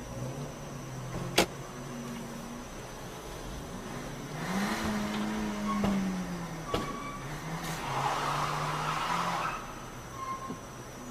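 Car engine running, its pitch rising about four and a half seconds in and easing back down, with two swells of road or traffic noise and a couple of sharp clicks.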